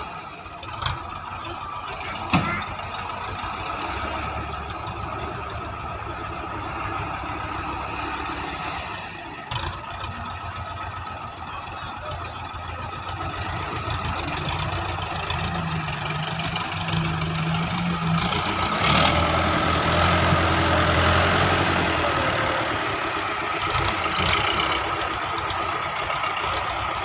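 Belarus 510 tractor's diesel engine running as it works the loader bucket, with a few sharp knocks in the first ten seconds. The engine grows louder for a few seconds past the middle, then settles.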